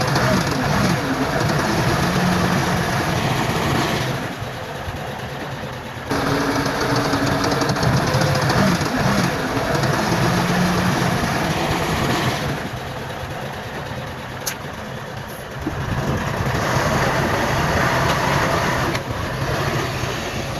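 Bulldozer diesel engine running hard, with a steady engine note. It drops back twice for a few seconds, about four seconds in and again about twelve seconds in.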